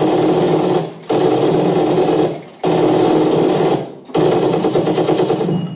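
Rapid, machine-like rattling in four bursts of about a second each, with short breaks between them.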